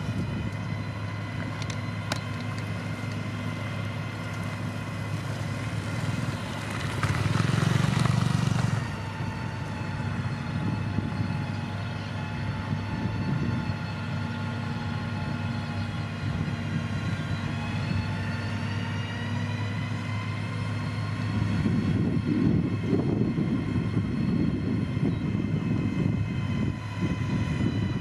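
Diesel engine of heavy road-building machinery running steadily. It swells louder for a couple of seconds about a quarter of the way in, dips in pitch and comes back up around the middle, and a heavier low rumble builds in the last third.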